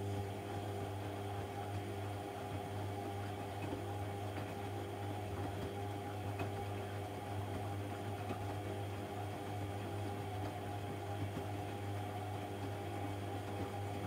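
AEG Lavamat 1400 washing machine running with a steady low electric hum and a buzz of steady overtones above it, unchanging in pitch.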